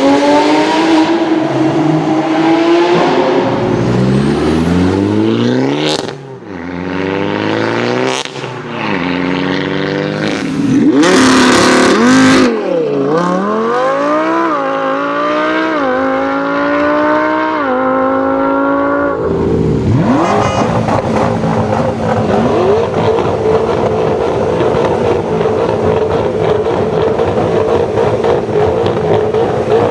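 A supercar engine revving, then accelerating hard, its pitch climbing and dropping back with each of several quick upshifts. In the second half it settles into a steadier, even drone.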